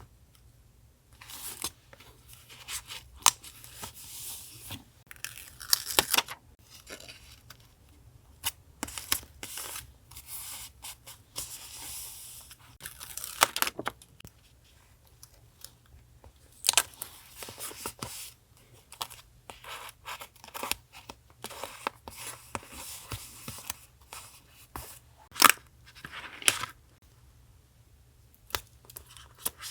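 Paper being torn and handled in repeated short strokes, rustling and crackling with sharp clicks in between, in three spells separated by brief pauses.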